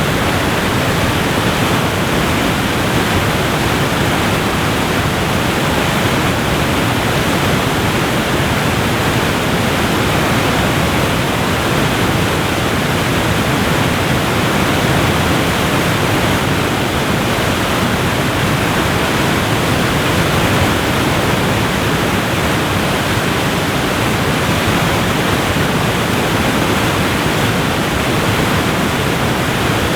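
Steady, unchanging rush of a waterfall.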